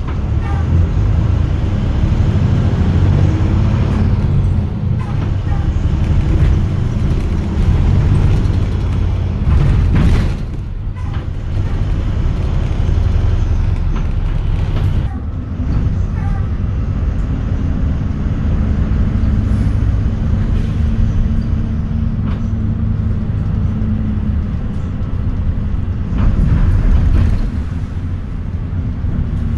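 Euro 6 diesel engine of a Hyundai New Super Aero City facelift city bus running, a loud, steady low drone whose level shifts as the bus works. There are a couple of brief air hisses, one about a third of the way in and another about halfway.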